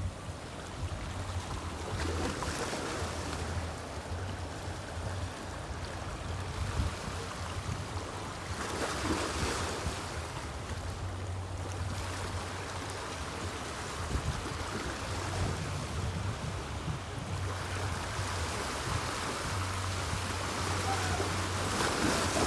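Waterside wind and water noise that swells and eases every few seconds, over a low hum that comes and goes.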